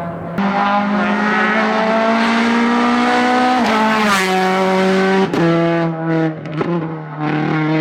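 Hillclimb race car engine at full throttle, its pitch climbing steadily, then dropping sharply at a gear change about three and a half seconds in and again about five seconds in, with a couple of brief lifts near the end.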